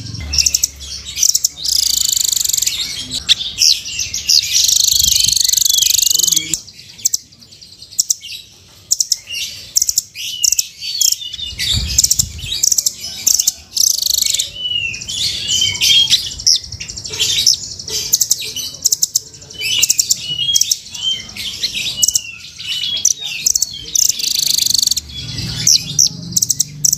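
Velvet-fronted nuthatch (rambatan) singing: rapid, high-pitched chirps and trilling runs, busiest in a few seconds of dense trills near the start and again near the end.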